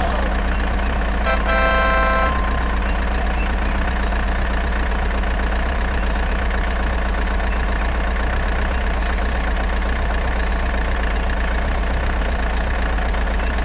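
A vehicle engine, truck- or tractor-like, running steadily at idle, with a short horn honk about a second and a half in.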